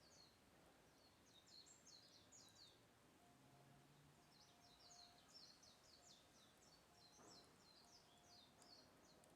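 A faint songbird singing rapid runs of short high chirps: one phrase about a second in, a longer one from about the middle to near the end.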